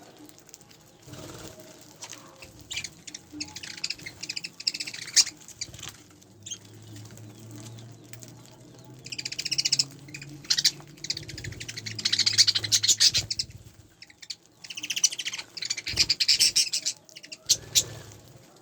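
Pet budgerigars chattering in several bursts of fast, high chirping, with scattered clicks and taps between the bursts.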